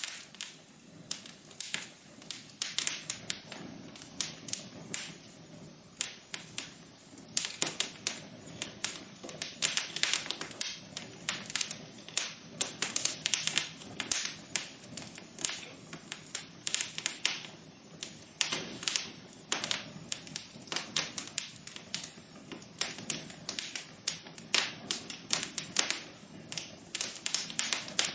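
Wood fire burning in a fireplace, crackling with a dense, irregular run of sharp pops and snaps over a soft steady hiss.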